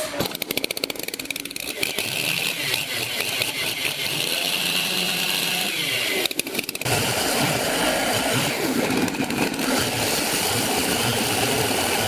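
Sawmill machinery running, with a steady high whine that dips slightly about six seconds in, then a fuller, louder running sound from about seven seconds on.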